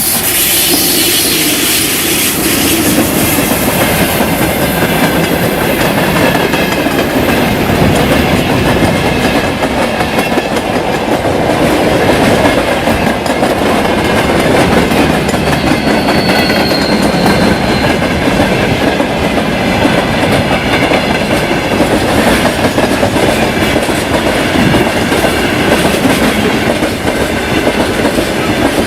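Freight train rolling past at speed, its wagon wheels clattering steadily over the rail joints, loud and continuous.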